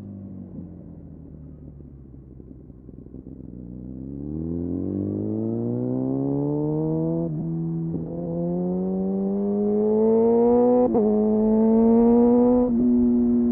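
Kawasaki Ninja motorcycle engine through an Arrow exhaust with the dB killer removed: low and easing off at first, then accelerating hard from about four seconds in, the pitch climbing and getting louder, broken briefly by quick gear shifts, and holding steady near the end.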